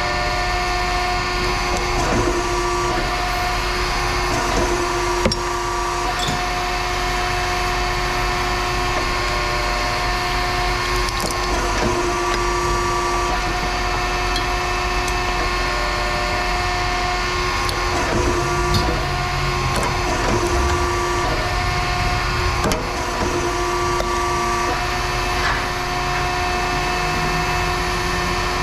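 Machinery running with a steady hum and whine that cuts in and out every few seconds, with scattered clanks and knocks of metal scrap being handled.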